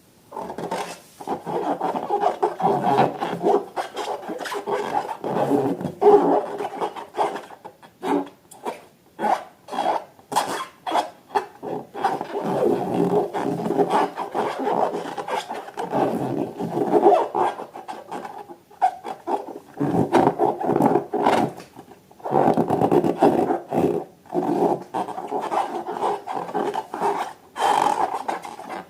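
Irregular rubbing and squishing of rubber balloons and slime being handled, with many small clicks and a short lull about two-thirds of the way through.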